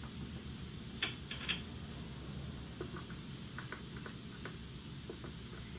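Quiet steady background hum with a few short, light clicks, a small cluster of them about a second in and fainter scattered ticks after.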